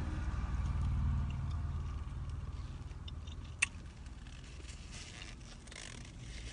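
Low, steady vehicle rumble heard from inside a car, strongest in the first couple of seconds and then easing off, with a single sharp click about three and a half seconds in.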